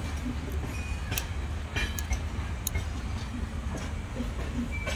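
A passenger train's coaches running past: a steady rumble of wheels on rails, with a few sharp clacks from the wheels now and then.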